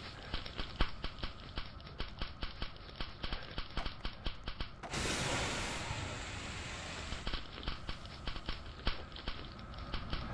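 Washing machine running: quick irregular clicking and rattling, with a sudden rush of hiss about five seconds in that lasts about two seconds.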